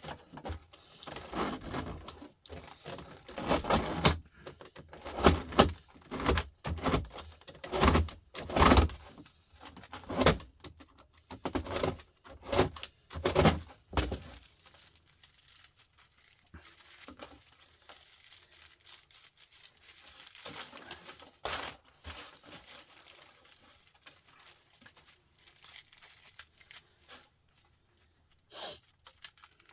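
Thin aluminium radiator fins being torn and crumpled off copper tubing, with rapid irregular metallic clicks and crinkles. The activity is busy for about the first half, then turns sparser and quieter.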